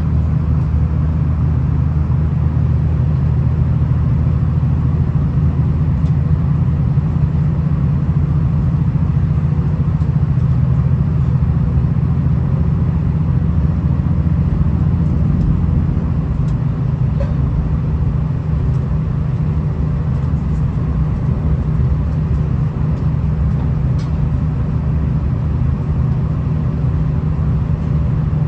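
V/Line VLocity diesel multiple unit running along the line, heard from inside the carriage: a steady low rumble of engine and wheels on rail, with a few faint ticks in the second half.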